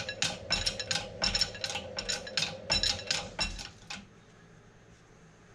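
Metal parts and tools clinking together in a quick run of sharp, ringing metallic strikes, about three or four a second, stopping about four seconds in.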